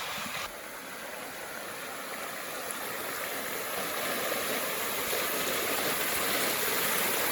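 River water flowing: a steady rushing that grows slowly louder.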